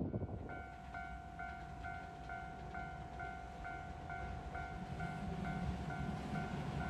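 Railway level-crossing alarm ringing: a single electronic bell tone repeating about twice a second, starting about half a second in. A low rumble grows beneath it from about five seconds in.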